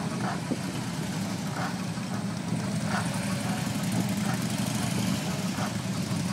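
Several police motorcycles running together as the display team rides in formation: a steady low engine drone.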